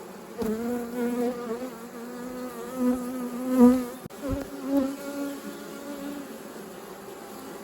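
Honeybees buzzing around an open hive, with one flying close past: its slightly wavering buzz rises about half a second in, is loudest about three and a half seconds in, and fades after about five seconds.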